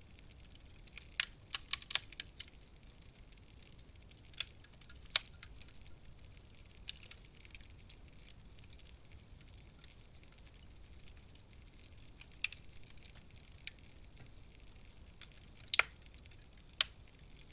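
Wood fire crackling in a fireplace: sharp, irregular pops and snaps, a quick cluster of them in the first few seconds and single pops after, over a faint steady hiss.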